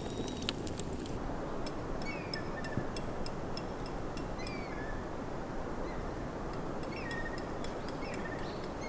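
Small birds chirping repeatedly in short calls over a steady low rushing background, with a few sharp clicks in the first second.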